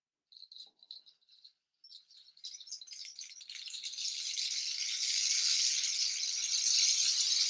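A hand-held rattle instrument, shaken: a few short separate shakes, then from about two seconds in a dense continuous high rattling hiss that swells and grows louder.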